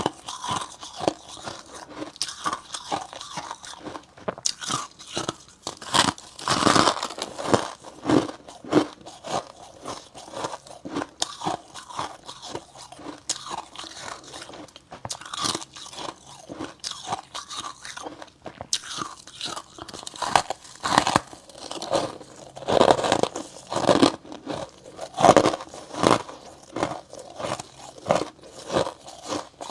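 Close-up biting and chewing of slabs of freezer frost, grown in a freezer with a humidifier: an irregular run of crisp crunches, some bites louder than others.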